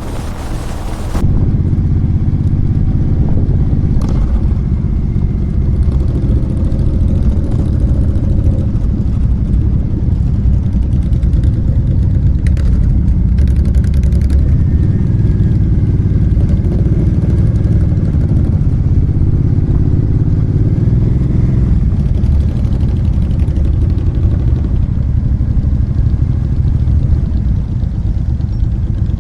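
Motorcycle engine running steadily, a dense low rumble, taking over when background music cuts off about a second in.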